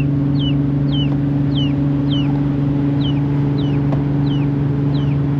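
Steady low hum of the river ferry's engine, with a chicken peeping in short repeated chirps, about two a second, over it.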